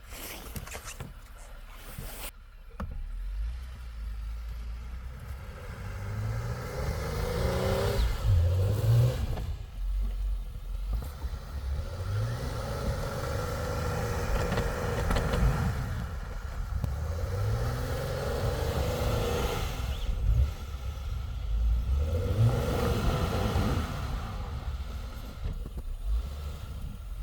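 An engine revving up and easing off in about three surges, each rising in pitch, over a steady rumble.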